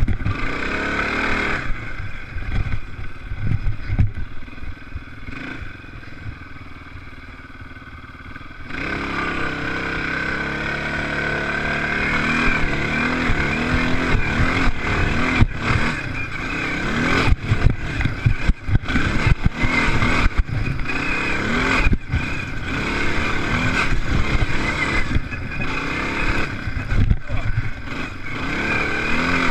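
Motocross race engines revving up and down on the track. They are fainter for the first several seconds, then louder and closer from about nine seconds in, with the pitch rising and falling through gear changes.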